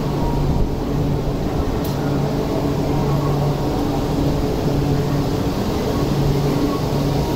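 E4 series Max double-decker Shinkansen moving slowly along the platform: a steady rumble with a low hum that swells and fades about once a second.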